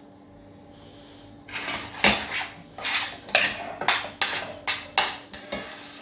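A spoon and fork scraping and clinking against a baking dish as mashed potato is spread over the pie filling. The strokes start about a second and a half in and come quickly, roughly two a second.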